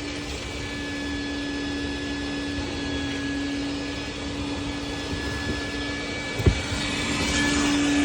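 Vacuum cleaner running steadily with a steady hum, a single sharp knock about six and a half seconds in, then getting a little louder near the end.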